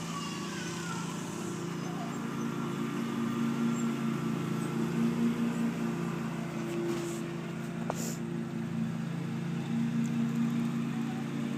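A steady low motor hum, like an engine running at idle.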